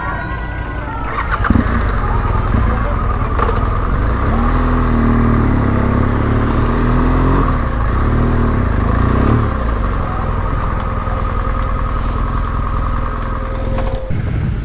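Motorcycle engine running, its revs rising and falling for a few seconds in the middle. The sound changes abruptly near the end.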